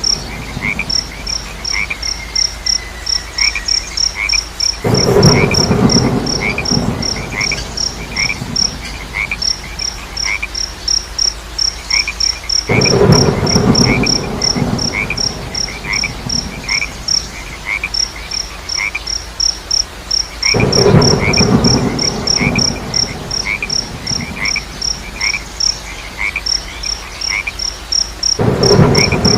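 A night chorus of frogs croaking in loud bouts of about three seconds that come back roughly every eight seconds. Over it, crickets give a fast, steady high chirping, with a lower chirp about twice a second.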